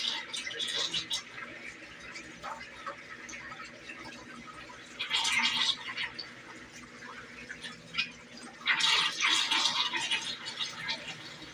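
Brastemp BWG11 washing machine washing a load of bedding and towels: water sloshing and swishing in the tub, with two louder surges about five and nine seconds in.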